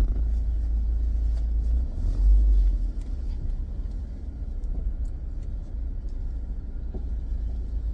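Low rumble of a car heard from inside the cabin, swelling for about a second around two seconds in, then settling.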